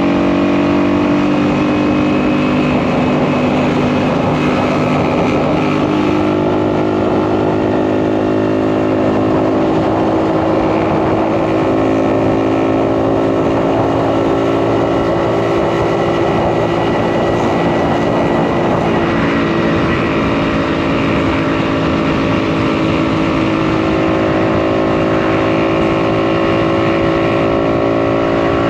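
Two-stroke single-cylinder engine of a 1952 DKW RT 200H motorcycle running under way, with wind rush. The engine note shifts up and down in pitch a few times as throttle and gears change.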